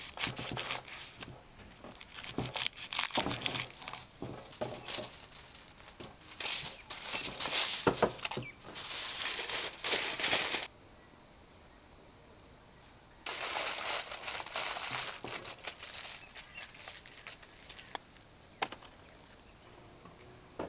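Irregular bursts of crinkling and rustling. The sound cuts off abruptly about ten seconds in and comes back more softly a few seconds later.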